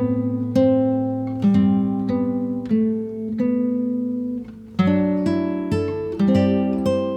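Background music: an acoustic guitar playing picked chords, a new chord struck about once a second, each ringing and dying away.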